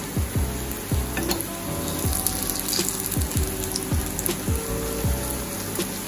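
Food sizzling and crackling as it fries in a pan, under background music with a deep, repeating bass beat.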